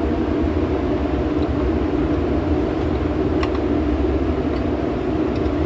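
Steady drone of running workshop machinery, a constant hum with no change in pitch, with a single light click a little over three seconds in.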